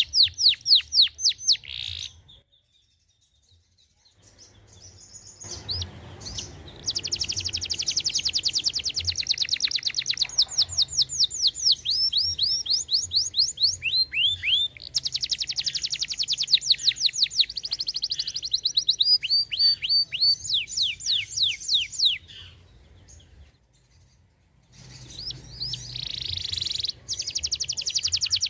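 Domestic canary singing long runs of fast, evenly repeated trill notes, some sweeping down in pitch. The song breaks off twice, a couple of seconds in and again near the end.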